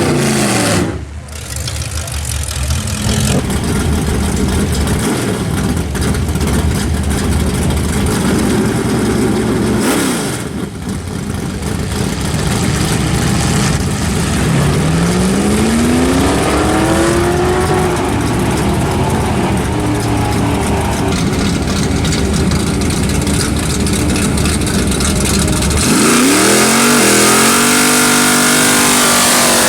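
Drag-racing cars accelerating hard down the strip, engine pitch climbing as they run, in a few separate passes with abrupt breaks between them. The loudest climb comes near the end.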